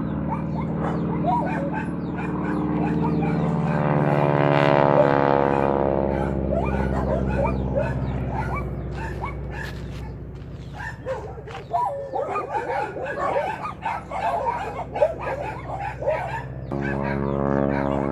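Grumman Ag Cat crop duster's 450 hp radial engine droning as the plane passes, its pitch falling as it goes by and then fading away, before the engine sound returns suddenly near the end. A dog barks and yips repeatedly, most busily while the engine is faint.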